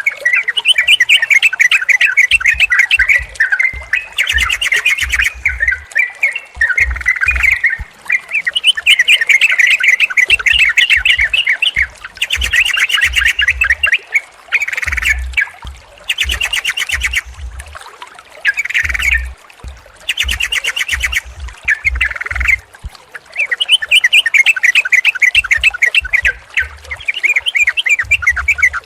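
Yellow-vented bulbuls chattering in repeated bursts of quick bubbly notes, one burst after another, with short high rattling trills in between. Short low thuds sit under many of the notes.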